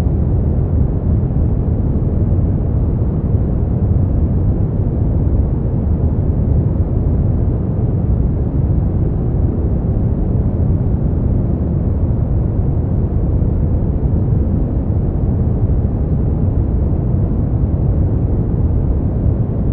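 Synthetic brown noise: a steady, deep rumbling hiss, weighted to the bass, with no changes or events.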